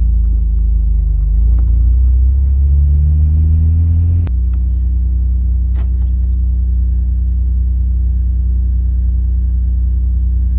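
A vehicle engine droning loudly with a low, even hum. Its pitch climbs for a couple of seconds, then about four seconds in it changes abruptly to a steady, lower drone for the rest.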